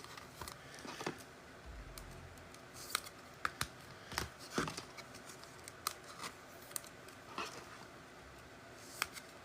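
Trading cards and a card pack being handled on a table: scattered light clicks and snips, about a dozen, irregularly spaced.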